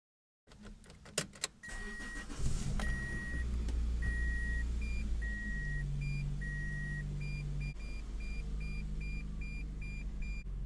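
Car engine starting and then idling steadily, heard from inside the cabin. Over it a dashboard warning chime beeps, first about five long tones and then a faster run of shorter, higher beeps. A couple of sharp clicks come just before the engine catches.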